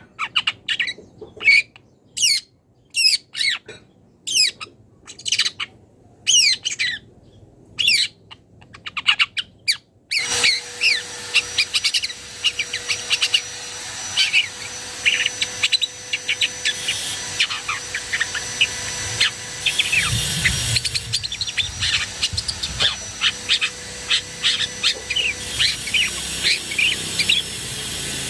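Long-tailed shrike singing a rapid series of sharp, quick notes and chirps. About ten seconds in the recording changes abruptly to one with a steady background hiss and a faint hum, with the notes coming thicker and faster.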